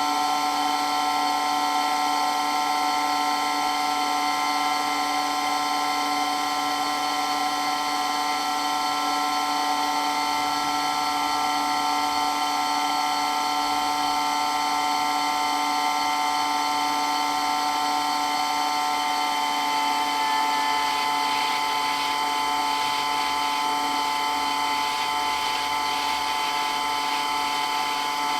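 Water pump running steadily with a loud, high-pitched whine made of several steady tones, unchanging in level.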